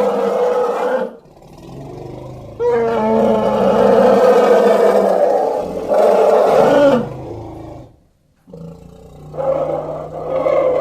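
Elephant calls, loud and roaring. One call ends about a second in, a quieter low sound follows, then a long call runs from about two and a half to seven seconds, and another call starts about a second before the end.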